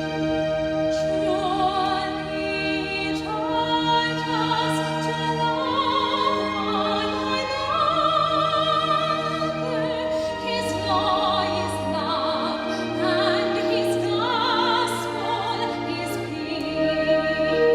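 Classical singing in operatic style, a voice with a strong vibrato moving through a melodic line over sustained orchestral accompaniment.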